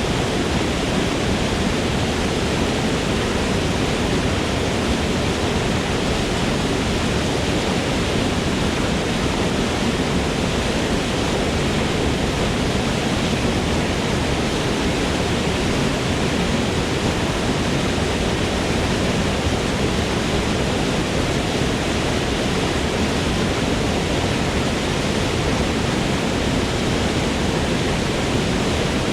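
Waterfall in a forest, water pouring and splashing in a steady, unbroken rush that holds at one level.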